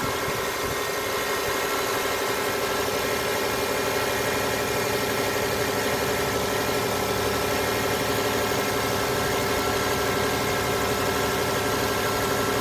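Aging Hyundai Grandeur TG gasoline engine running at a steady idle, an even mechanical hum with a few constant tones over a noisy whir; the owner considers the engine too noisy.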